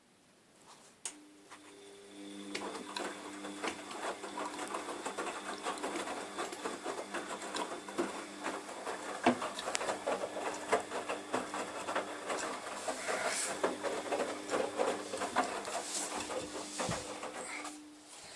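A laundry machine running: its motor starts with a steady hum about a second in, the drum's load clatters and rattles over it throughout, and the hum stops near the end.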